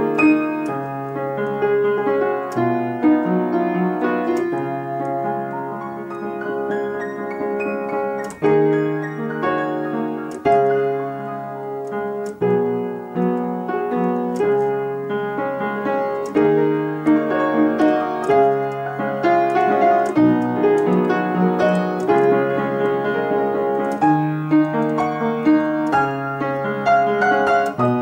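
Solo piano playing a slow instrumental piece. Low bass notes change about every two seconds beneath sustained chords and a higher melody.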